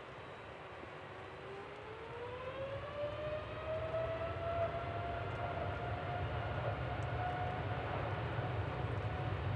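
Jet airliner engines spooling up: a whine rises in pitch over a couple of seconds and then holds steady, while a low rumble builds and grows louder.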